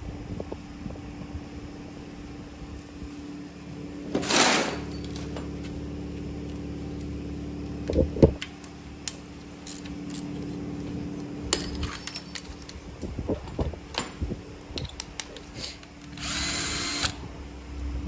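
A cordless power drill-driver runs in two short whirring bursts, about four seconds in and again near the end, undoing the 10 mm screw of the engine's crankshaft sensor. Between the bursts, tools click and knock on metal over a steady low hum.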